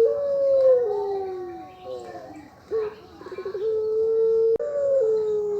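Puter pelung turtle dove cooing its long call, twice: each begins with a quick stuttering run of notes, holds one long steady coo, then steps slightly higher and slides slowly down at the end, the long 'ngelik panjang' finish.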